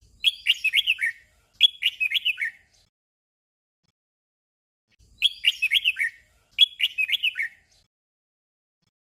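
Red-whiskered bulbul singing a short 'double' song: two quick warbled phrases of about a second each, back to back. The pair comes once near the start and again about five seconds in.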